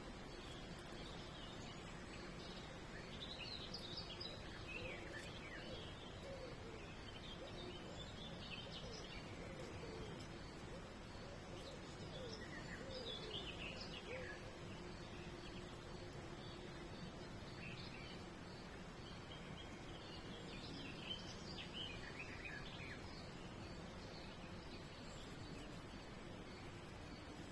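Songbirds chirping and singing in short bursts of quick falling notes, several phrases spread across the stretch, over a steady outdoor background hiss.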